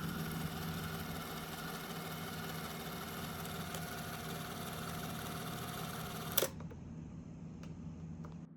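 ELMO Super 8 Sound 350SL film camera's motor whirring steadily as it runs, stopping with a sharp click about six seconds in. A low hum continues underneath.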